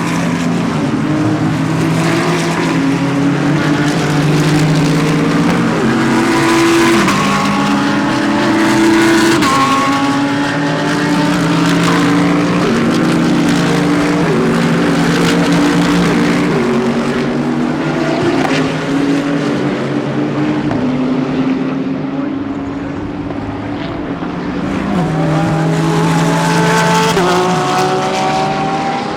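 GT3 race cars running past one after another, their engines climbing in pitch and stepping down through repeated upshifts as they accelerate, several cars overlapping.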